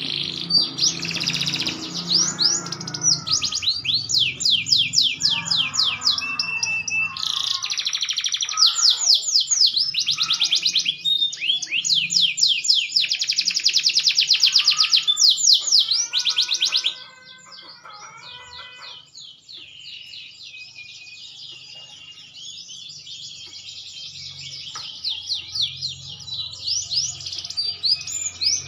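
Green canary singing long, very rapid trills and rolls, loud for the first two-thirds, then going on more softly before picking up again near the end.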